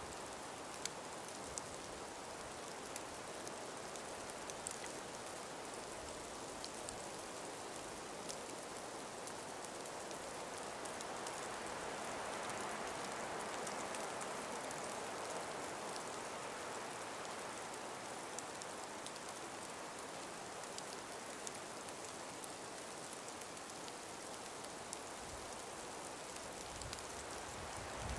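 Light wind through an ice- and snow-covered forest: a steady soft hiss that swells gently for several seconds in the middle, with scattered faint ticks.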